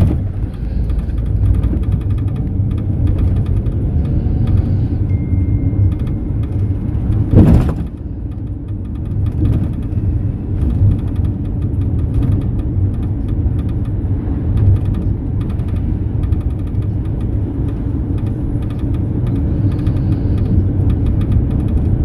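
Cabin noise inside a Mercedes-Benz Sprinter minibus on the move: a steady low engine and road rumble, with one sharp jolt about seven and a half seconds in.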